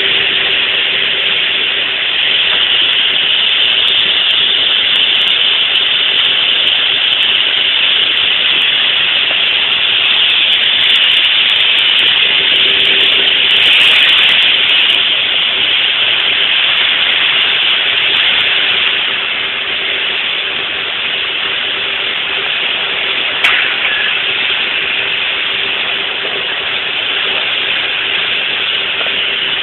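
Steady rushing hiss of wind and water, with a steady engine hum underneath. A single sharp click comes about 23 seconds in.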